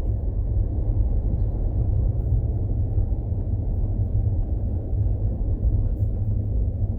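Steady low rumble of a Tesla in motion: road and wind noise, with no engine note.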